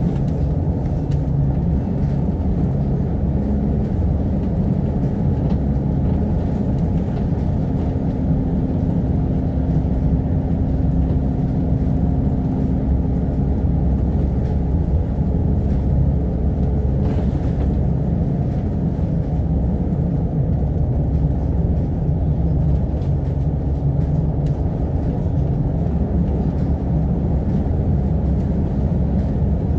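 Steady engine and road rumble inside a moving Alexander Dennis Enviro500 MMC double-decker bus, heavy in the low end, with a faint steady hum over it in the first half.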